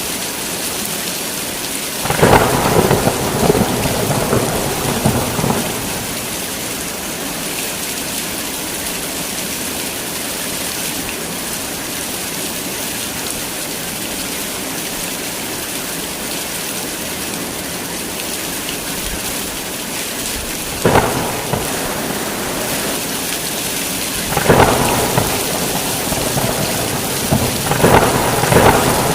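Heavy rain falling steadily in a thunderstorm, with thunder rumbling four times: a long roll about two seconds in, a short crack around twenty-one seconds, then two more rolls near the end.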